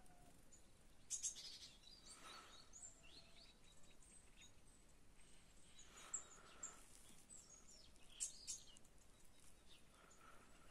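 Faint, scattered bird chirps, a few short high calls every couple of seconds, over a quiet background hiss.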